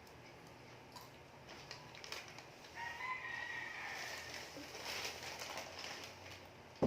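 A rooster crowing in the background: one drawn-out call lasting about a second and a half, starting about three seconds in. Around it are small scattered clicks of eating food close to the microphone, and a single sharp click near the end.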